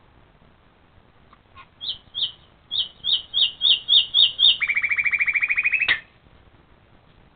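A bird singing one phrase: about nine short down-slurred whistled notes that come faster and faster, running into a quick rattling trill that stops abruptly.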